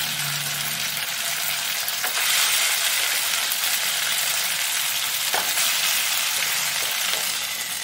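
Freshly cooked, wet sago pearls sizzling steadily in hot ghee in a kadai, just after being added to the pan.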